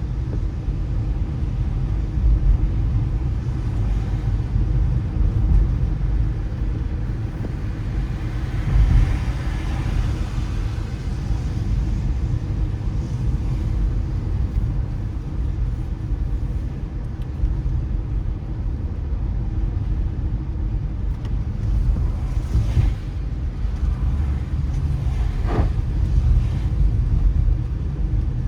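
A car driving on wet city roads in rain: a steady low road and engine rumble under tyre hiss. The hiss swells about nine seconds in, and there are two brief louder swishes later on.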